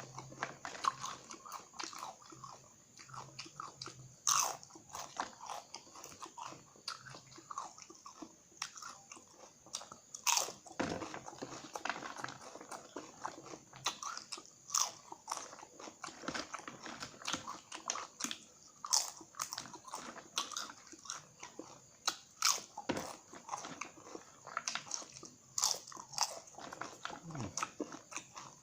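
Close-up crunching and chewing of crispy cassava chips with spicy sambal, in irregular runs of sharp crackling bites.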